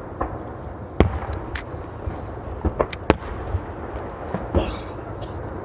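Aerial fireworks bursting: irregular sharp bangs over a steady low rumble, the loudest about a second in and a quick cluster of three near the middle.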